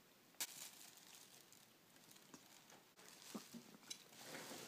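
Quiet close-up eating noises: a sharp click about half a second in, then soft clicks and rustles as food is bitten and chewed, with a couple of short low throaty sounds near the end.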